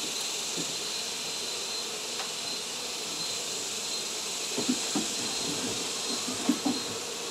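Honey bees from an exposed hive buzzing steadily under a high steady hiss, with a few soft knocks from handling the hive about four and a half seconds in and again near the end.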